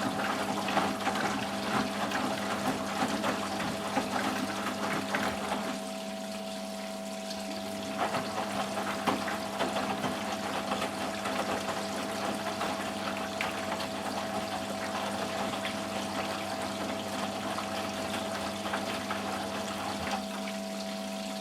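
Eudora Sparmeister 702 Classic washing machine in its rinse stage: water rushing and gurgling through the machine over a steady electric hum.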